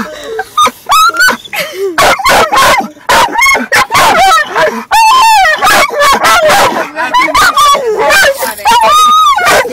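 A dog barking and yelping in a rapid string of short, high calls that slide up and down in pitch, with one longer drawn-out cry near the end.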